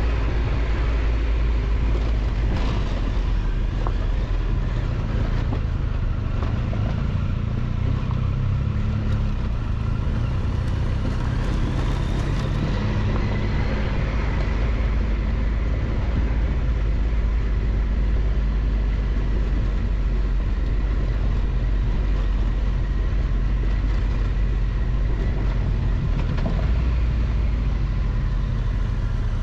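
Triumph Tiger 1200 XCX's three-cylinder engine running steadily under way on a dirt road, with wind and tyre noise. The engine tone holds fairly even throughout.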